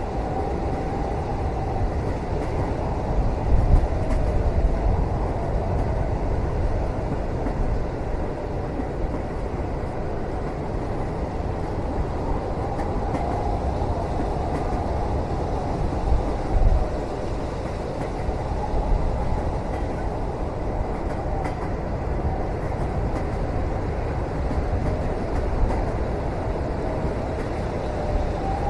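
Passenger train running, heard from inside the cabin: a steady low rumble with a faint wavering tone that comes and goes, and a couple of louder thumps, about 3 seconds in and again past the middle.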